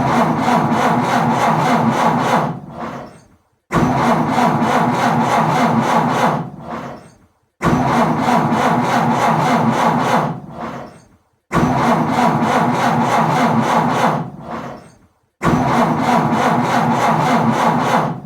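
An old car's engine being cranked by its starter without catching: five cranking attempts about four seconds apart. Each one starts abruptly, runs about two and a half seconds with a fast, even chugging rhythm, then dies away, the sound of a car that won't start.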